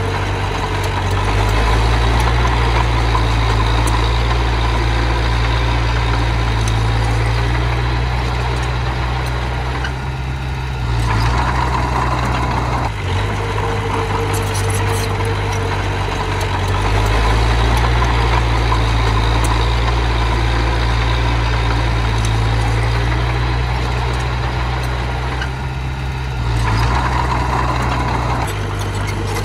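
Diesel engine of small earthmoving machinery running continuously, its note shifting several times as the throttle or load changes while the machine works.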